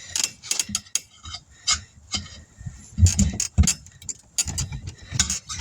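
Irregular metallic clinks and knocks from tire-changing work as a 20-inch tire is worked onto its rim on a tire changer, with a few heavier thumps about halfway through.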